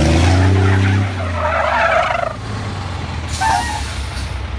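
Scania truck's diesel engine held at high revs, then dropping off about a second in, followed by tyres scrubbing and skidding as the truck spins in tight circles. A short hiss comes a little after the middle.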